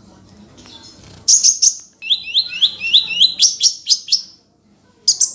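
A songbird singing loud, high, rapid phrases, including a run of quick rising notes repeated about five times a second. The song starts about a second in, pauses briefly, and starts again near the end.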